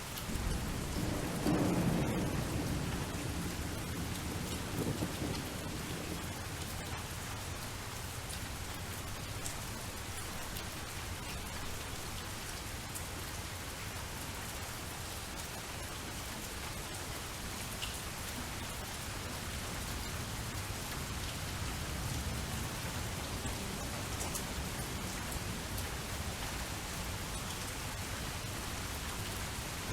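Steady rain falling, with a low rumble of thunder in the first few seconds and a fainter rumble again later on.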